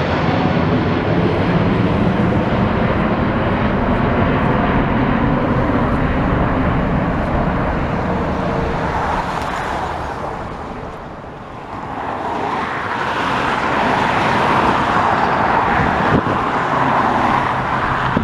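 Jet engine roar of a departing Boeing 777-300ER, its twin GE90-115B engines rumbling low and fading away over about ten seconds. Then road traffic noise swells up and stays loud to the end.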